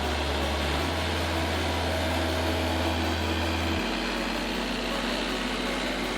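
Heavy machine engine running steadily under background music, whose bass holds one note and changes to another about every three seconds.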